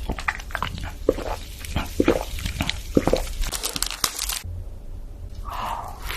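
Close-miked eating sounds: a rapid run of crisp crunches and crackles as crunchy food is bitten and chewed. They break off about four and a half seconds in, and one short softer sound follows near the end.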